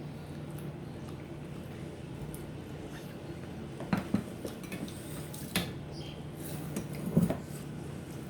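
Plates and a serving spoon clinking a few times during a meal, the sharpest clinks about halfway through and near the end, over a steady low hum.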